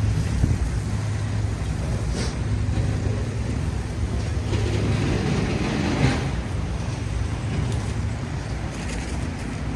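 City street traffic: a vehicle engine running with a steady low hum, and other vehicles passing, the loudest swelling and fading about six seconds in.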